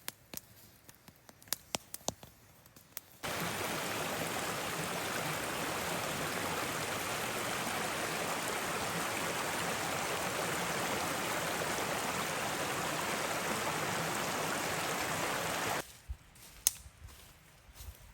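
Rushing water: a steady, even rush that cuts in abruptly about three seconds in and stops just as abruptly about two seconds before the end. Faint small clicks and taps can be heard before and after it.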